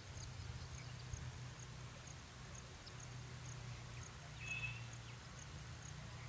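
Quiet outdoor ambience with a faint high ticking about twice a second and a steady low hum. About four and a half seconds in there is one short bird call.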